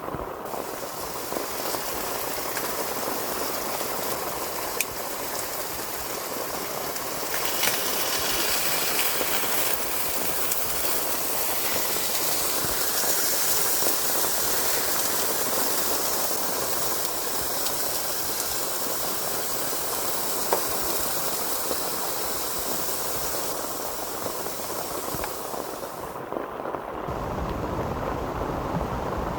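Heavy rain falling on a tent and tarp, a steady hiss with a few sharp single drips or ticks. It grows heavier a few seconds in. Near the end a low rumble comes in as the high hiss eases.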